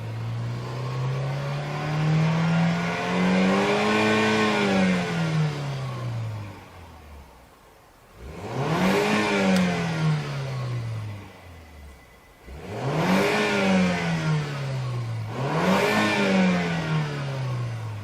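BMW 3 Series engine revved through its muffler: one slow climb in revs that falls away, then three quicker blips, each rising and dropping back.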